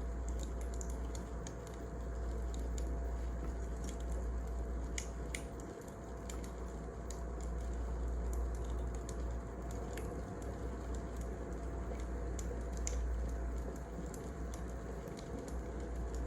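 Wood fire crackling: irregular sharp pops and snaps over a steady low rumble and hiss of the burning logs.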